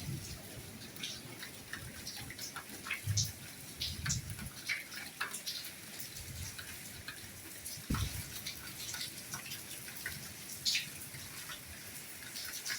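Soft steady rainfall, a hiss with many irregular individual drops ticking and splashing close by, and an occasional low thud of a heavier drop.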